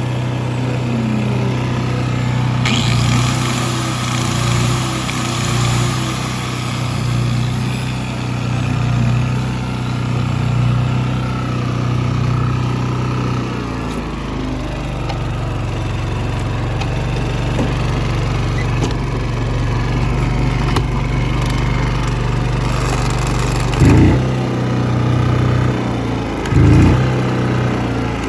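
Shindaiwa EGW-151MS engine welder-generator running steadily, its engine note shifting slightly about halfway through. Two loud thumps come near the end.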